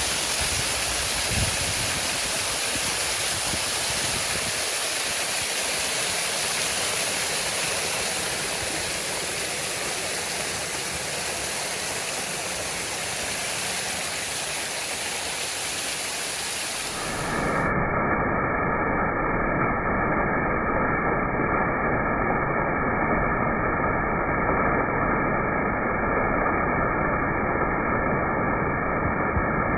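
Waterfall rushing as a steady, even roar of water. About two-thirds of the way through it switches abruptly to a duller, more muffled rush with more low rumble and a faint steady hum.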